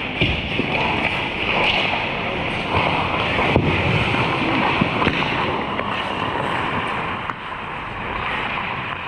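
Ice hockey game in play: a steady rush of skates scraping and carving the ice, with a few sharp clacks.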